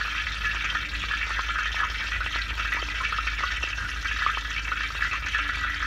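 A piece of mourning dove meat frying in hot oil in a shallow pan: a steady sizzle with many small crackling pops.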